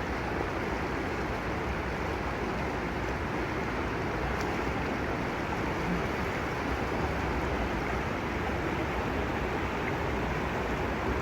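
Steady rushing of a waterfall and its stream, an even wash of water noise that does not change.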